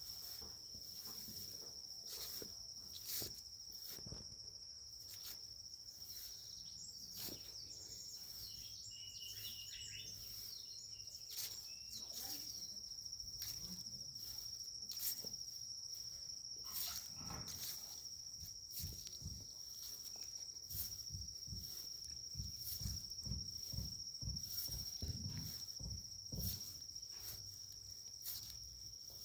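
An insect keeps up one steady high-pitched trill throughout. Frequent short knocks and low thumps from footsteps cut across it.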